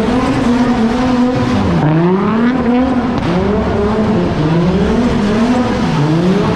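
A loud car engine revving, its pitch swinging up and down again and again, about once a second.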